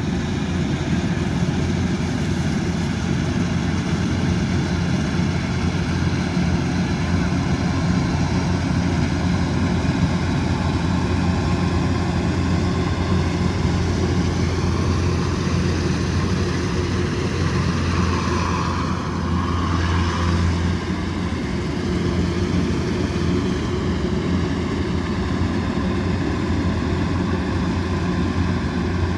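Kubota DC108X combine harvester's diesel engine running steadily at working speed, a loud, even drone with a strong low hum. The tone shifts briefly about two-thirds of the way through, then settles again.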